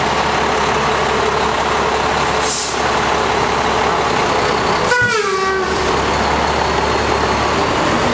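Seagrave Marauder II fire engine running out on a call, its diesel engine running loudly throughout. About two and a half seconds in there is a short hiss of air, and about five seconds in a brief air-horn blast that sags in pitch as it ends.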